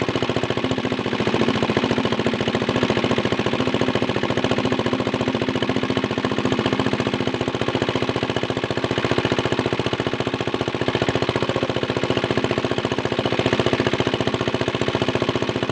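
Small single-cylinder diesel engine driving a water pump, running steadily with a fast, even chugging pulse.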